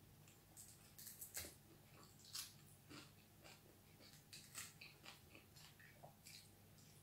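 Faint chewing of fried fish and rice, with irregular small crunches and mouth clicks.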